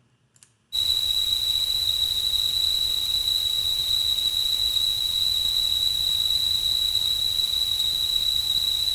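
Synthetic narrowband noise, a band about 200 Hz wide near 4 kHz, heard as a steady whistle-like tone over a background hiss; it starts abruptly just under a second in. It sounds tonal though it holds no pure tones, so classical tonality misses it while hearing-model tonality rates it at just over 0.4 TU-HMS.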